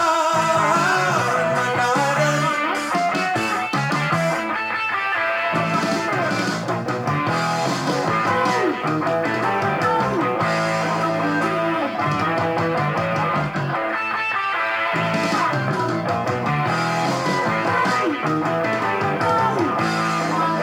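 Instrumental rock music led by guitar, with the band playing steadily and no vocals.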